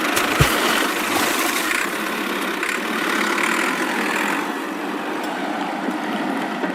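A steady engine-like running noise, with one thump about half a second in.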